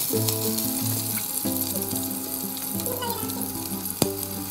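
Sliced onions and bay leaves sizzling in hot oil in a pressure-cooker pot, with one sharp knock about four seconds in. Background music with held notes plays under it.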